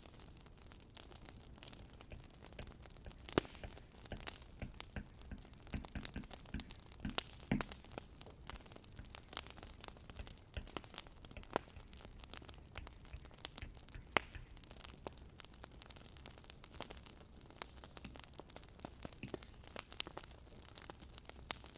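Wood fire crackling and popping, with irregular sharp snaps of burning firewood over a faint steady hiss.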